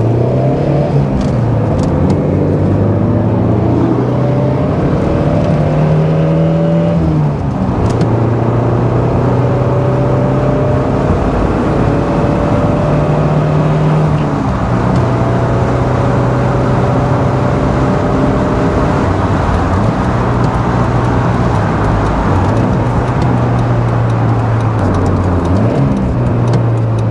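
1985 Toyota Celica's 22RE four-cylinder engine heard from inside the cabin, accelerating up through the gears of its five-speed manual. The pitch climbs and drops back at upshifts about one, seven and a half and fourteen seconds in, then holds nearly steady at highway cruise over road noise.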